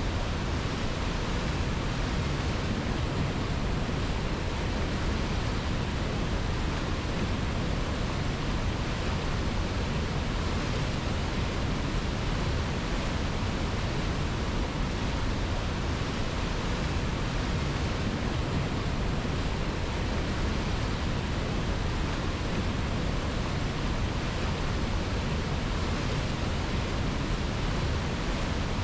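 Steady rushing of a river, an even hiss with no changes and no separate splashes or other sounds.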